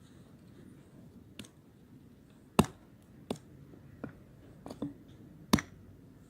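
Campfire crackling: burning wood giving off sharp, irregular pops, with a loud crack about two and a half seconds in and another near the end.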